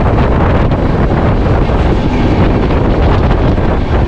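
Wind buffeting the microphone at an open train door, over the steady running rumble of a passenger train on the rails.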